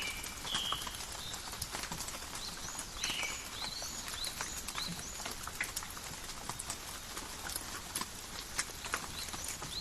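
Steady forest rain, with many single drops tapping close by. A string of short, high chirps sounds between about three and five seconds in.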